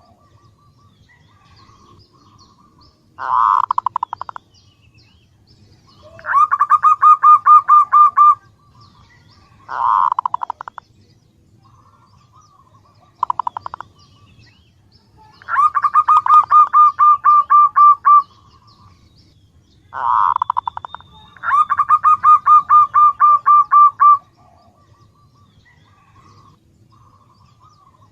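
Female zebra dove calling for a male: about six bouts of fast, evenly pulsed notes, some short and some running for several seconds, with brief pauses between them.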